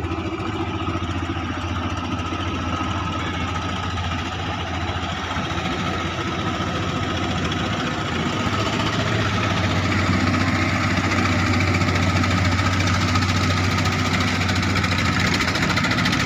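Klotok (wooden river motorboat) engine running steadily, growing a little louder about halfway through.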